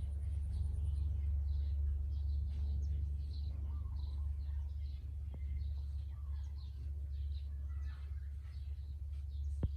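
Birds chirping faintly over a steady low hum, with a sharp click about halfway and another near the end.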